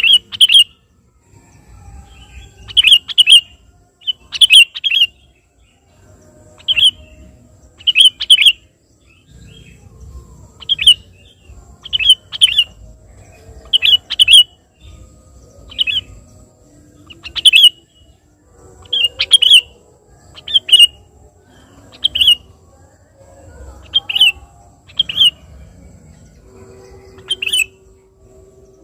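Sooty-headed bulbul (kutilang) calling loudly and persistently: short, sharp calls, often in quick pairs, repeated every second or two.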